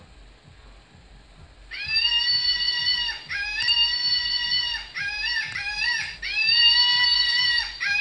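A loud, high screaming call like a peacock's, starting about two seconds in: a string of long held cries with shorter wavering ones between them, the mysterious scream in the dark.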